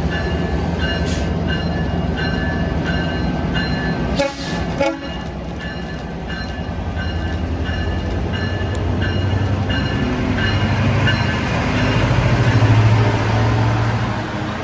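GO Transit diesel locomotive pulling away from the station: its engine drone builds and grows louder after about ten seconds as it powers up. A bell rings steadily, and two short horn blasts sound about four seconds in.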